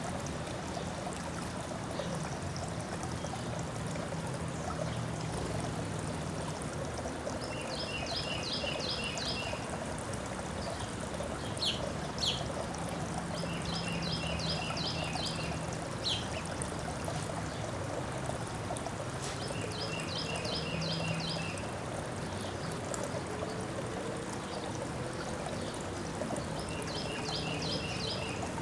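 A songbird singing the same short phrase of about five quick high notes four times, several seconds apart, with a couple of sharp single calls in between, over a steady trickling, rushing noise of running water.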